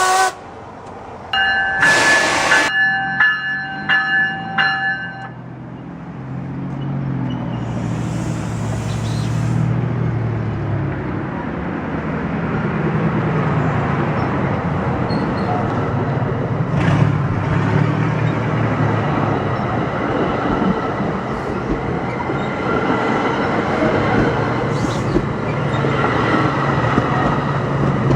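Commuter train locomotive horn sounding a multi-note chord, first one long blast and then several short ones. The locomotive and its train then come by with a rising, steady rumble of engine and wheels on the rails.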